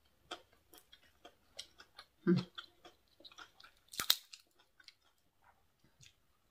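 Close-up eating sounds of papaya salad and crispy fried dried squid: many small wet mouth clicks while chewing, a short low sound about two seconds in, and a sharp crisp crackle about four seconds in as a piece of fried squid is pulled apart.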